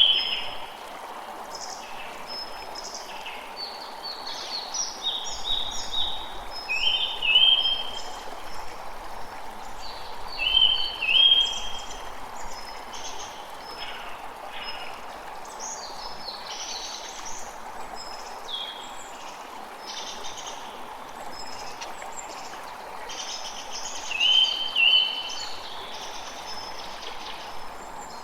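Birds chirping and calling in short, repeated notes over the steady rush of a running stream. The loudest calls are short paired notes that recur several times.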